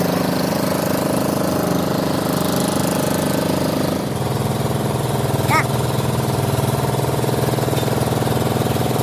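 Machine-shop machinery running with a steady engine-like drone. Its tone drops and changes about four seconds in, and a brief high-pitched squeal comes a little past the middle.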